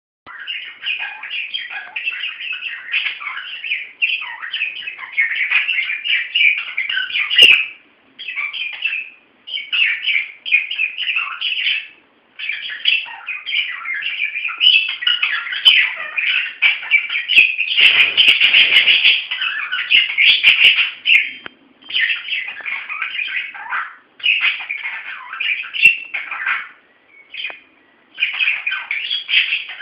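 Several budgerigars chattering and warbling in rapid, continuous chirpy phrases broken by brief pauses, with a louder, noisier flurry partway through.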